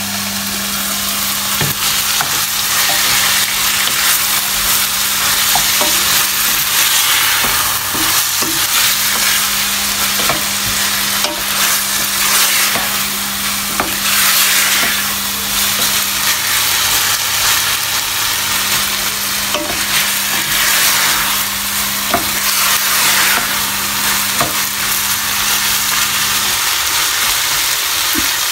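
Diced potatoes and spiced chicken pieces sizzling as they fry in a stainless steel pan, stirred with a spatula. The sizzle swells with each stir, with scattered light taps of the spatula against the pan.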